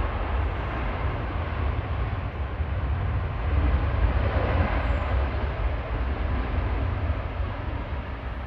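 Jet airliner passing at close range: a broad, loud rumble that swells near the middle and fades toward the end.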